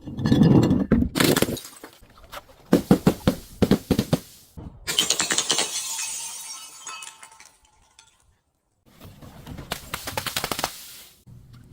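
Glass being crushed and shattered in repeated bursts of sharp crunching. About five seconds in a bigger break sends shards tinkling and ringing for a couple of seconds, then after a brief pause the crunching starts again.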